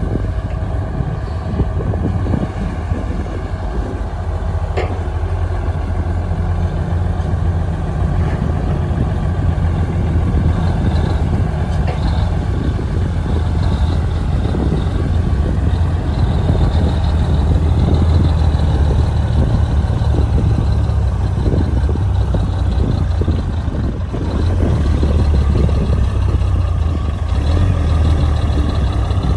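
Heavy diesel engine of a bulldozer running steadily with a deep rumble, with one sharp knock about five seconds in.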